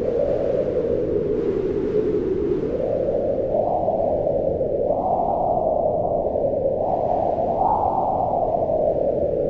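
Howling blizzard wind: a steady rushing howl whose pitch slowly rises and falls with the gusts. It peaks about two-thirds of the way through and sinks again near the end.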